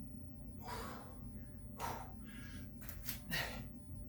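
A person breathing hard from exertion, with four short, forceful breaths in the space of about three seconds, the last two close together.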